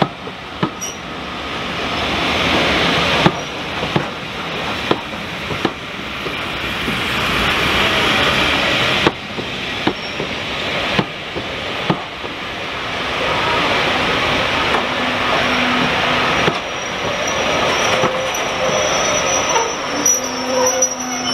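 Train of vintage passenger coaches rolling past at close range: a steady rumble and hiss with wheels clicking over rail joints about once a second. A few brief high squeals from the running gear come near the end.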